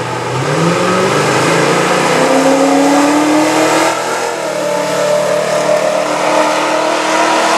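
A street car's engine at full throttle on a drag-strip launch, its revs climbing steadily, falling back about four seconds in and then climbing again.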